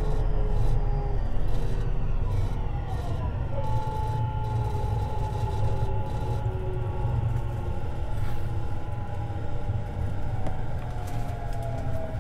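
Tobu 50090 series electric train running, heard from near the underfloor: a steady rumble of wheels on rail with the whine of the traction motors and inverter, its pitch falling gradually as the train slows.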